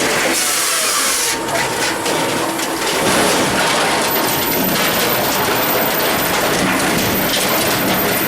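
Firewood processor running: a loud, steady mechanical din of engine and cutting, with a burst of hiss about half a second in.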